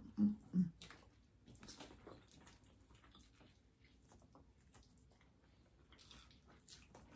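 Faint wet chewing and mouth sounds of eating, with scattered small clicks.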